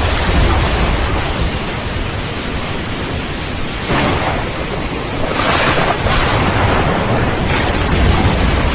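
Heavy steady rain with thunder rumbling low underneath it, the rumble strongest near the start and again near the end, and the rain swelling in gusts midway.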